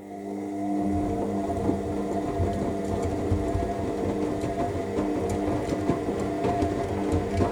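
AEG L7FE7461BI washing machine drum motor starting up and turning the drum during the main wash, rising to a steady hum over the first second. The wet load tumbles underneath with irregular low knocks.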